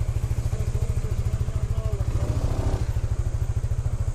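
Motorcycle engine running steadily, with an even, rapid low pulsing from its firing strokes.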